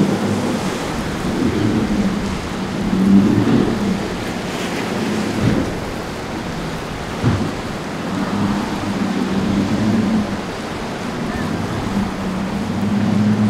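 Boat engines droning, rising and falling, over rushing waves and water noise, with a couple of short thumps partway through.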